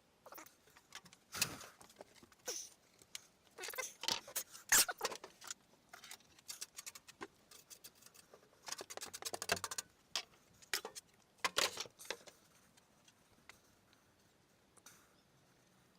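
Hand handling of wooden workpieces: irregular light clicks, taps and short scrapes, with a quick run of rattling clicks about nine seconds in.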